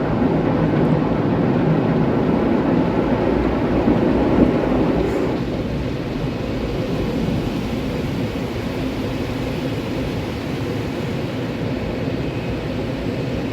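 Water jets of a tunnel car wash spraying onto the car's body, heard from inside the cabin as a steady rushing noise. It is louder for the first five seconds or so, then eases a little.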